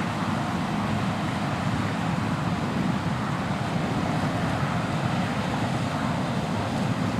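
John Deere S690 combine running steadily while harvesting corn, a constant low drone of engine and machinery.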